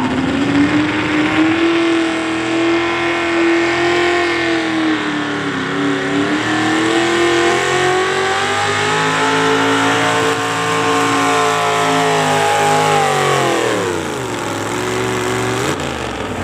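Pulling tractor's engine at full throttle under load, its pitch climbing on the launch and holding high, dipping briefly about five seconds in, then falling away about thirteen seconds in as it comes off the throttle.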